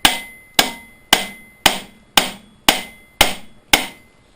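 Steel hammer striking metal: eight even blows, about two a second, each ringing briefly. The blows are aimed at shocking loose a part that is stuck on tight.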